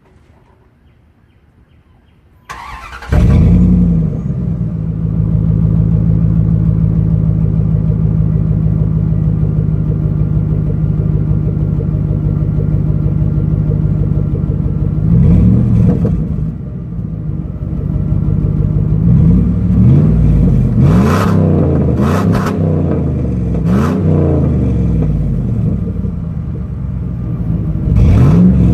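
Dodge Dakota pickup engine cranked and started through a dual exhaust with 2.5-inch mandrel-bent pipes and Flowsound 10 mufflers. It catches about three seconds in, settles to a steady idle, and is revved once about halfway through, then several quick times a few seconds later and once more near the end.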